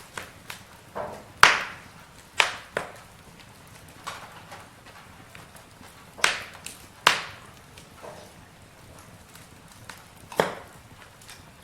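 Campfire crackling: irregular sharp pops, about six loud ones among many small ticks, over a faint steady hiss.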